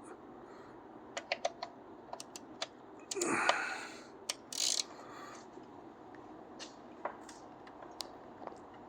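Sharp, irregular metal clicks and clinks of a 19mm socket and wrench being handled and fitted onto an oil drain plug. A louder scraping noise comes about three seconds in, with a short bright burst just after.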